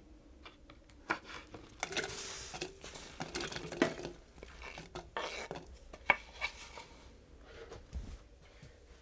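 Kitchenware being handled: dishes, pots and utensils clinking and knocking in irregular strokes, with a short hissing scrape about two seconds in.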